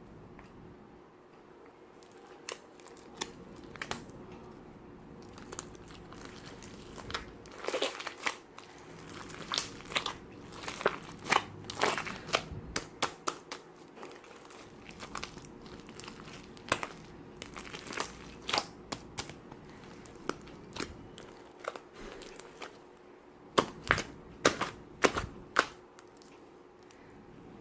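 Slime being squeezed and worked by hand, making irregular sharp clicks and pops that come in clusters, densest around the middle and again near the end.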